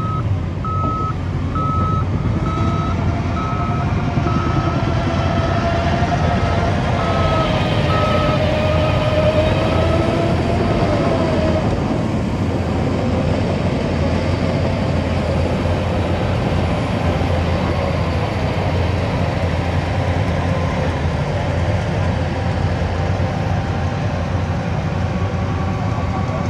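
Heavy diesel earthmoving machinery running steadily, with a reversing alarm beeping about once a second that fades away about eleven seconds in. A wavering whine rides over the engine over the same stretch.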